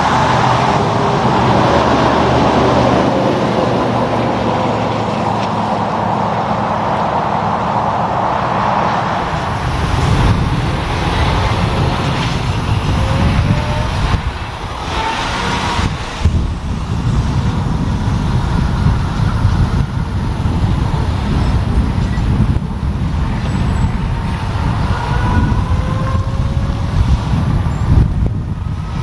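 Heavy diesel trucks on the road, engines running with tyre and traffic rumble. A steady engine note gives way after about nine seconds to a louder, denser rumble as more traffic passes.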